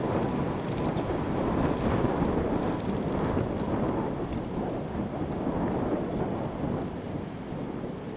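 Strong wind gusting over the microphone: a dense, continuous rush of noise that swells and eases.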